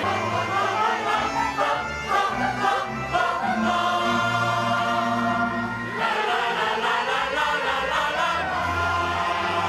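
Choir of children and adults singing a Christmas song together in long held notes, with a new phrase starting about six seconds in.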